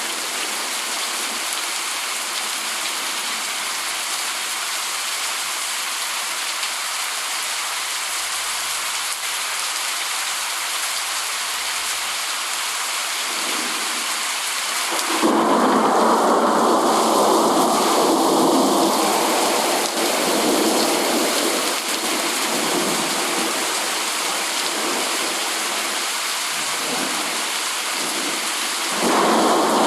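Steady heavy rain hissing. About halfway through, a thunder rumble comes in suddenly, swells for a few seconds and slowly dies away, and another roll of thunder begins near the end.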